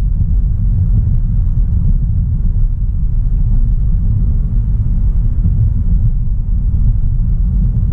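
A 2016 Audi A3 Sportback with its 1.4 TFSI turbo petrol engine driving along at a steady pace: a constant low rumble of road and engine noise, with no revving up or down.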